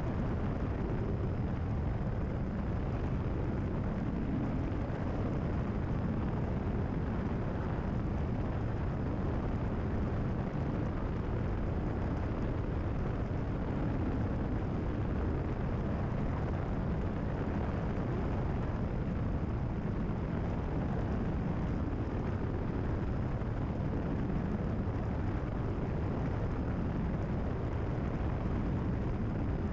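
Cessna 172RG's four-cylinder Lycoming engine and propeller running steadily at cruise power, heard inside the cabin as an even, unchanging drone.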